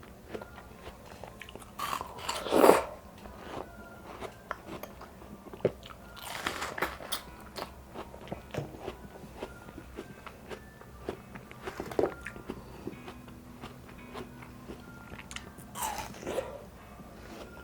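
Close-miked eating of juicy seedless watermelon: wet, crunchy bites about 2, 6, 12 and 16 seconds in, the loudest one near the start, with small chewing clicks between them.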